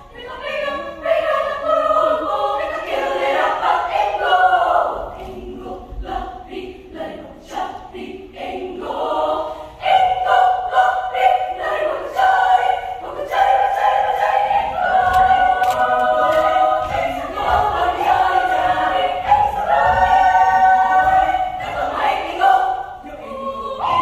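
Children's choir singing in parts, with a softer passage partway through before the voices swell again.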